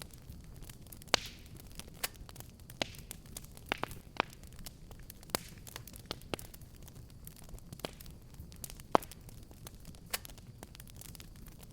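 Wood fire crackling and popping: irregular sharp pops and snaps, the loudest about a second in and near nine seconds in, over a low steady rumble of burning.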